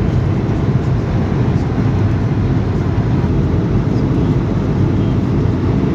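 Steady cabin noise of an Airbus A220-300 airliner in flight: an even, low rumble of airflow and engines that does not change.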